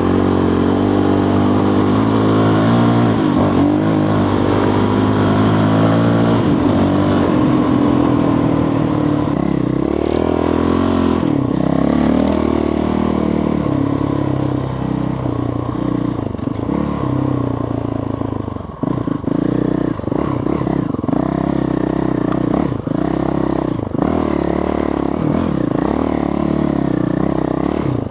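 Motorcycle engine running under load on a slippery track, its revs rising and falling constantly with throttle changes. The revs drop off briefly a couple of times about two-thirds of the way through.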